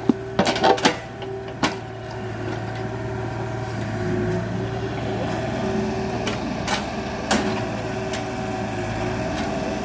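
Excavator's diesel engine running steadily, with a cluster of sharp metallic knocks in the first second, another shortly after, and a few lighter clicks later on.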